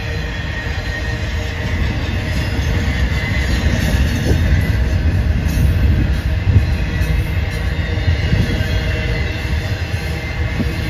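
BNSF intermodal freight train's loaded container well cars rolling past, a loud steady rumble of steel wheels on the rails.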